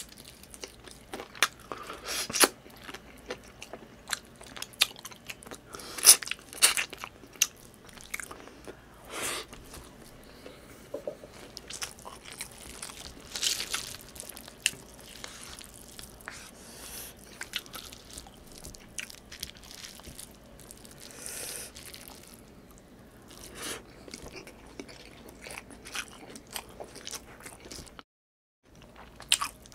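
Close-miked chewing and mouth sounds of a man eating chicken adobo and rice with his hands: wet smacks, bites and crunches at irregular intervals. The sound drops to total silence for about half a second near the end.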